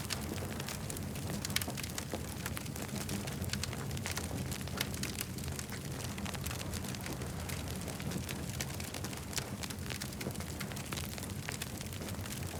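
Campfire burning, with frequent sharp crackles and pops over a steady low rumble; one louder pop about a second and a half in.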